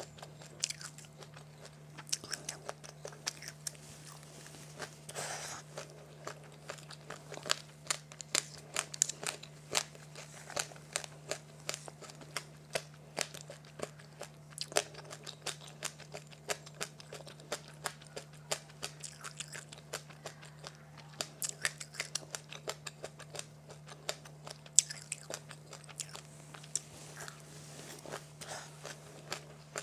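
Close-up crunching and chewing of crisp seedy snacks, a fast, irregular run of sharp crackling bites. A faint steady hum runs underneath.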